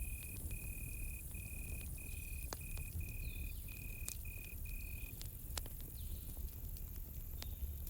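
Campfire crackling with scattered sharp pops over a low steady rumble, while a cricket chirps in a run of short high-pitched trills that stops about five seconds in.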